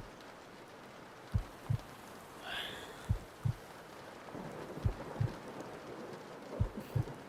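A slow heartbeat sound effect, four double lub-dub thumps about one every 1.7 seconds, over the steady hiss of rain.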